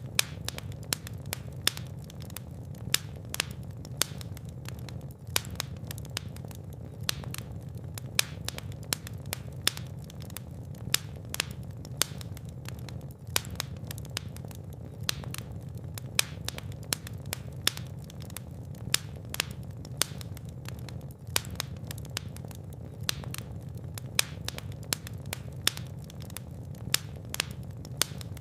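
Fire burning in a fireplace, crackling with frequent irregular sharp pops, some much louder than others, over a steady low rumble of flame.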